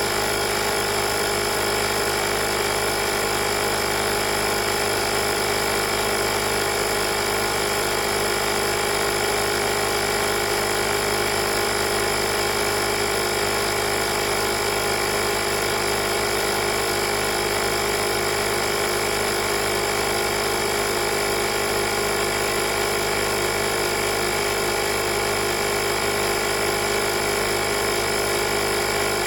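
Oasser portable air compressor running steadily, an unbroken mechanical drone with a constant pitch.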